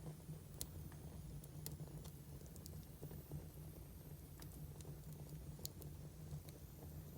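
Firewood burning in a fire: scattered sharp crackles and pops, about five in a few seconds, over a low steady rumble.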